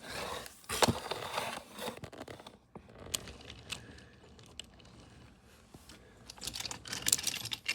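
Irregular clicks, rustles and light scrapes of small objects being handled, busiest at the start and again near the end.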